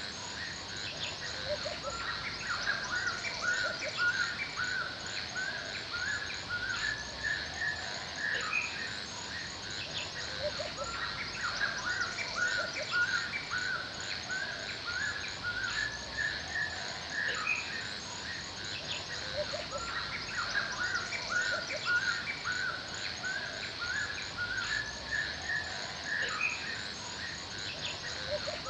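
Forest birds chirping and calling in many quick, repeated notes, over a steady high-pitched insect drone.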